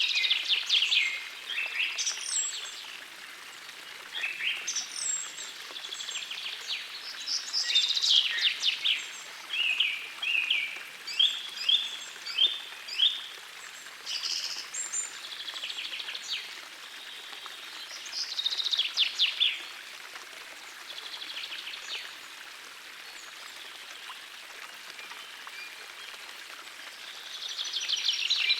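Songbirds singing in short, repeated phrases and rapid trills, one after another, over the faint steady rush of a small forest stream.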